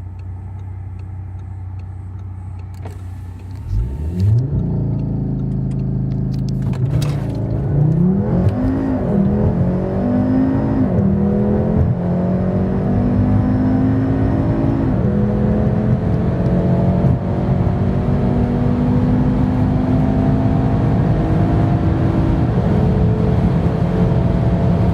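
Audi RS3's turbocharged 2.5-litre five-cylinder, tuned to APR Stage 2, idling and then accelerating hard under full throttle. The engine note climbs repeatedly and drops sharply at each of several quick upshifts.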